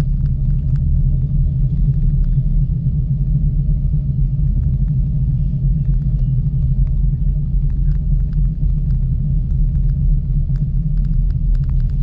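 Steady low rumble of a Miyajima Ropeway gondola in motion, with a faint steady hum and scattered light clicks and rattles.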